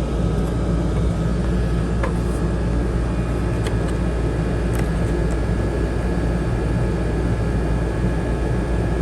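A steady low mechanical hum with a few light clicks, about two, four and five seconds in.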